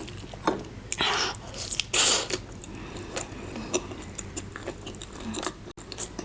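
Close-miked biting and chewing of crispy fried chicken tail ("chicken diamond"), with irregular crunches and wet mouth sounds. The loudest bites come about one and two seconds in.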